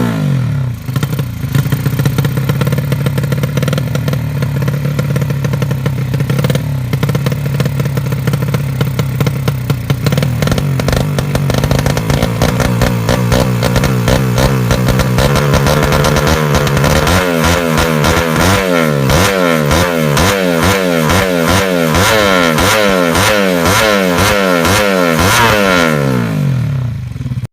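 Yamaha Jupiter 110 motorcycle's single-cylinder four-stroke engine, tuned for drag racing, running loud at a held, wavering rev, then blipped up and down in quick repeated revs from about two-thirds of the way in, cutting off near the end.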